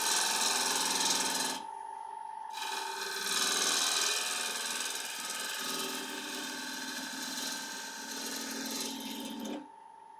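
Turning tool cutting an ash bowl blank spinning on a wood lathe: a steady hiss of cutting over the lathe's constant whine. The cut breaks off for about a second near the two-second mark and stops just before the end, leaving the lathe running.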